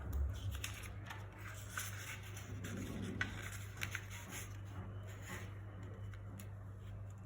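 Paper being handled, folded and creased by hand: scattered soft rustles and crisp little clicks over a steady low hum.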